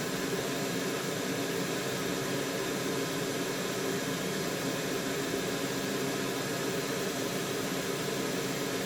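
Hot air rework station blowing at high airflow (about 120 litres) onto a circuit board, together with a fume extractor fan: a steady rushing hiss with a faint fan hum underneath.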